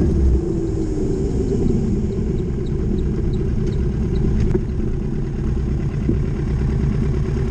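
Motorcycle engine running on the move over a steady low rumble, its pitch dropping over the first couple of seconds as it eases off, then holding steady.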